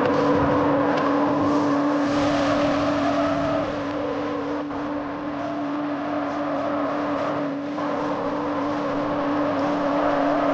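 Tractor diesel engine running hard at a steady high speed, its pitch holding nearly constant, easing a little midway and picking up again near the end.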